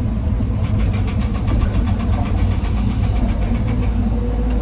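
Heavy diesel engine of the excavator or dump truck running steadily with a deep rumble, with a quick run of clattering knocks about a second in.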